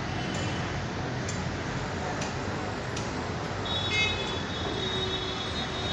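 Busy street traffic noise, with a vehicle horn sounding about three and a half seconds in and held to the end.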